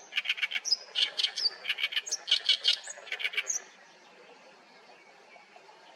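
Oriental reed warbler singing: quick runs of harsh, grating notes with a few short whistled slurs between them. The song stops about three and a half seconds in.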